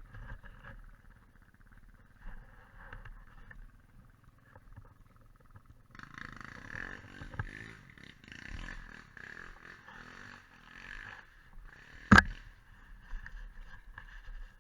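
Quad bike engines running with an uneven rumble that grows busier midway. A single sharp knock about twelve seconds in is the loudest sound.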